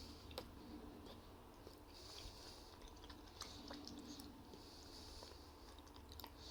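Faint chewing of a soft, chewy brownie: quiet mouth sounds with scattered small clicks.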